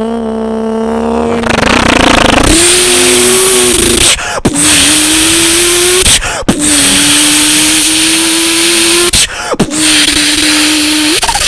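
A man's vocal impression of a 1000 hp Toyota Supra MK4 with a 2JZ engine accelerating. It opens with a rising rev, then holds a steady straining engine note that climbs slightly, cut by three brief breaks like gear shifts, with a loud hiss over it.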